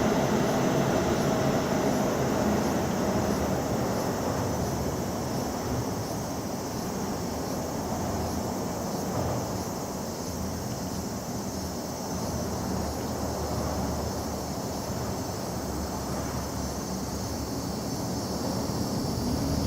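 Dense chorus of cicadas: a steady high buzzing with a faint regular pulsing, over a low rumble.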